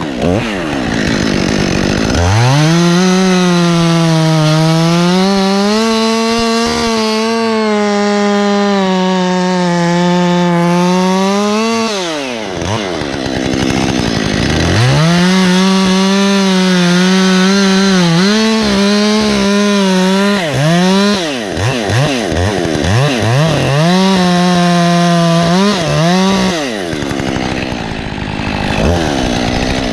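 Two-stroke chainsaw run at full throttle through wood cuts: it revs up about two seconds in, holds high with the pitch sagging under load, drops back briefly around the middle, then cuts again, with several short throttle blips before settling back toward idle near the end.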